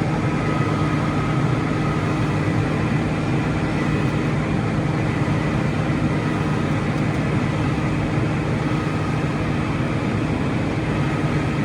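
Heavy diesel engine, most likely the excavator's, running steadily at a constant speed with an even hum.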